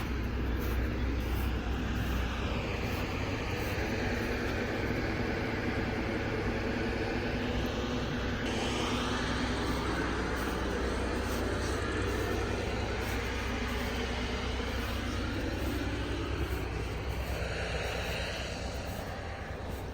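1972 O&K V12 diesel engine running steadily shortly after a cold start. Its sound gets brighter and hissier about eight seconds in.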